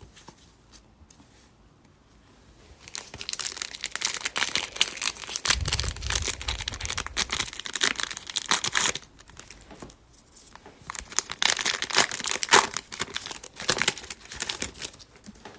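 Foil baseball card pack wrapper crinkling and tearing as a new pack of 2021 Topps Stadium Club cards is opened by hand, in two long spells of dense crackling with a short lull between them. A brief low rumble of handling comes about six seconds in.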